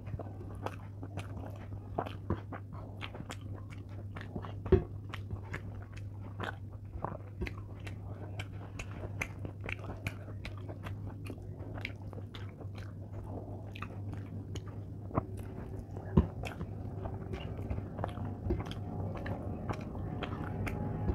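Close-miked chewing and wet mouth clicks of a person eating rice with her hand, over a steady low hum. Two sharper clicks stand out, about 5 seconds and 16 seconds in.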